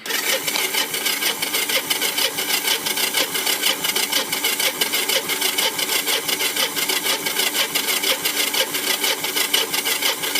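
Kawasaki three-wheeler's engine being cranked over by its electric starter for about ten seconds in a steady rhythmic churn, not firing: a failed cold start.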